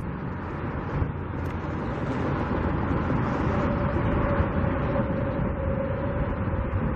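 Steady outdoor noise of wind buffeting the microphone, with a low traffic rumble under it.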